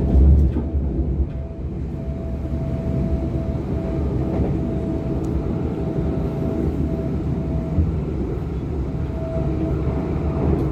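Cabin sound of a DB Class 425 electric multiple unit under way: a steady low rumble from the wheels and running gear, with a thin steady tone above it that fades in and out. There is a brief louder low bump right at the start.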